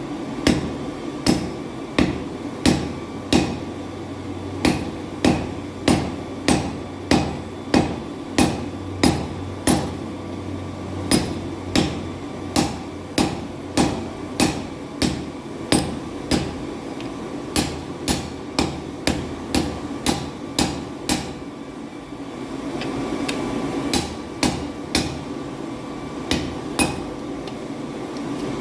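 Hand hammer striking hot leaf-spring steel on an anvil while forging a knife blade: sharp, ringing blows at about one and a half a second, in runs with short pauses. A steady hum runs underneath.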